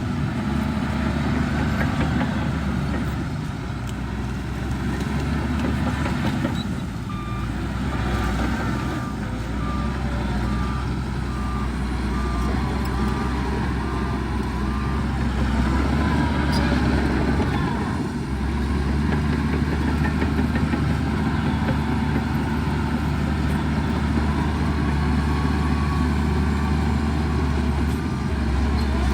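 Heavy diesel earthmoving machinery running steadily with a deep engine rumble. A reversing alarm beeps at an even pace over it and stops a little past the middle.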